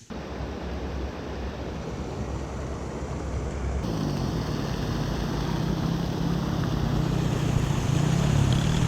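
Wind rushing over the microphone on a moving motorbike, with the motorbike's engine hum wavering in pitch from about halfway through.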